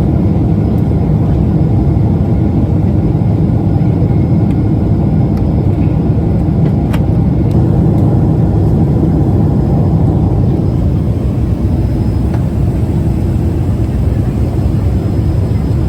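Jet airliner cabin noise: a steady, loud, deep rush of engines and airflow heard from inside the passenger cabin, easing slightly about two-thirds of the way through.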